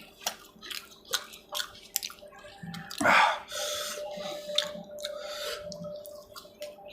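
Close-up wet eating sounds: chewing and lip smacking in quick clicks while eating rice with fish curry, with one louder wet burst about three seconds in.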